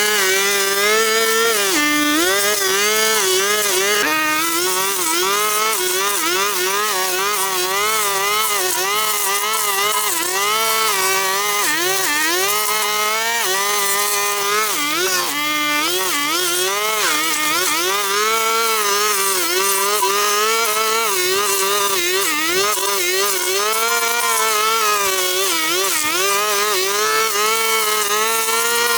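Small petrol engine of a handheld power tool running continuously, its pitch rising and falling every half second or so as the throttle and cutting load change, with a faint steady hum underneath.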